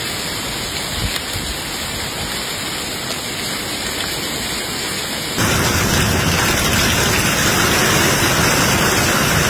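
Heavy rain pouring down as a steady, dense hiss; about five seconds in it cuts to a louder downpour.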